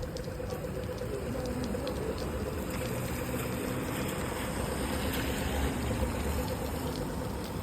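Rainy city-street ambience: rain and wet traffic noise, swelling a little in the middle, over a steady hum.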